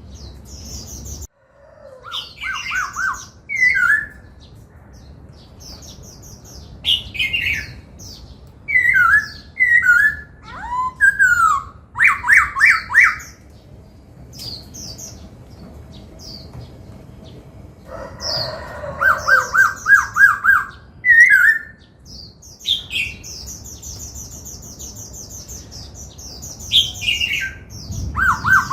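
Laughingthrush singing loud, varied phrases: fast runs of repeated notes, sliding whistles that fall in pitch, and bright trills, separated by short pauses.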